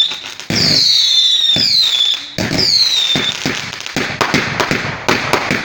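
Fireworks going off: three shrill whistles, each falling in pitch, among sharp bangs, then a dense run of crackling pops from about four seconds in.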